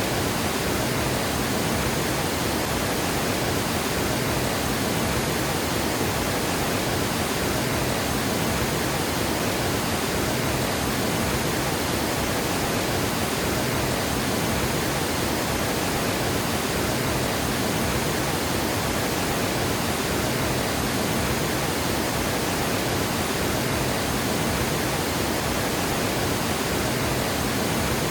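Water pouring over a dam spillway, a steady rushing roar that stays even throughout.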